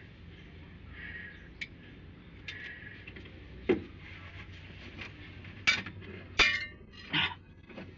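Metal clinks and knocks from hand tools and engine parts being handled during a top overhaul on a diesel engine: a few sharp strikes in the second half, the loudest about six and a half seconds in.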